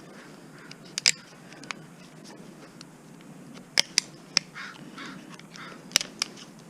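Hand tools working on scrap appliance metal while a motor is pried off: several sharp metallic clicks and knocks, about a second in, a cluster near the middle and two more near the end, with some faint scraping between them.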